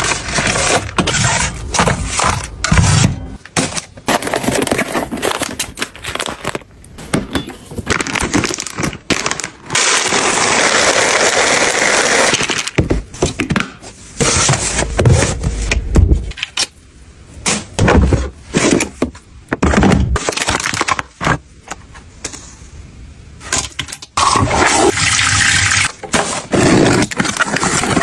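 Objects being handled: irregular knocks, clicks and scrapes. About ten seconds in, and again near the end, there is a steady rushing noise lasting two or three seconds each time.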